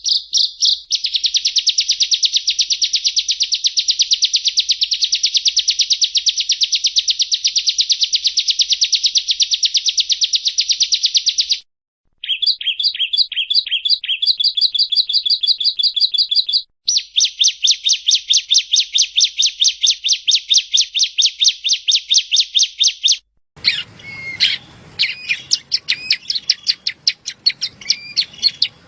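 Prenjak rawa (yellow-bellied prinia) singing: long, very fast trills of sharp repeated notes, each trill running several seconds with brief breaks between them. About three-quarters of the way in it changes to a hissier recording with more varied, scattered chirps.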